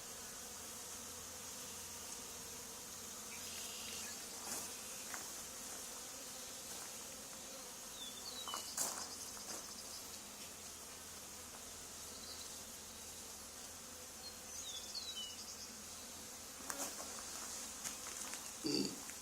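A swarm of honey bees buzzing steadily as they fly around and settle into a hive box.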